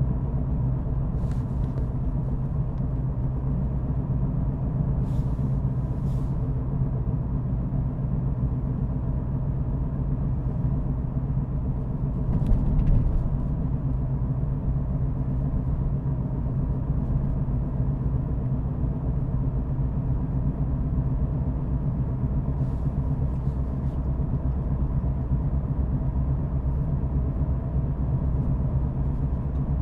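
A car being driven at a steady pace, with a continuous low rumble of road and engine noise. About twelve seconds in there is a brief, louder bump, and a few faint light clicks come and go.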